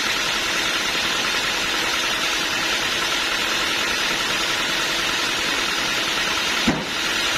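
Machinery with an engine running steadily, a constant drone and hiss. There is one brief click near the end.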